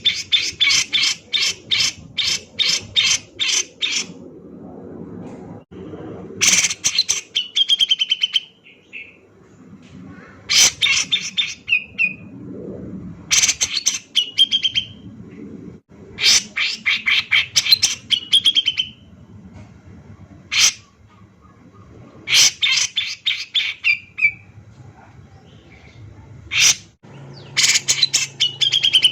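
Grey-cheeked bulbul (cucak jenggot) singing in repeated loud bouts of rapid, sharp high notes, about three or four a second. Several bouts end in a short falling trill.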